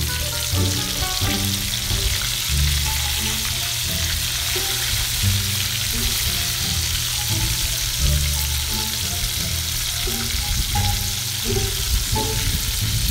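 Breaded chicken pieces deep-frying in hot oil in a wok, with a steady sizzle.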